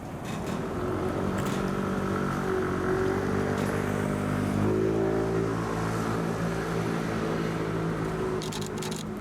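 Heavy vehicle's engine pulling away, its pitch rising, then changing about halfway through and running steadily. A few short high clicks come near the end.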